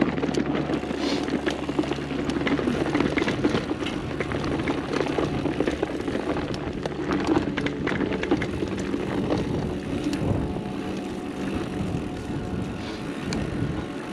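Mountain bike riding down a dirt singletrack trail: tyres rolling over the ground with steady rumbling and frequent short knocks and rattles from the bike over bumps.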